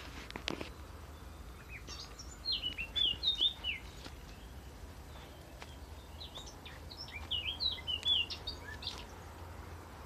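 A songbird singing two phrases of quick, varied, sliding high notes, the first about two seconds in and the second about six and a half seconds in.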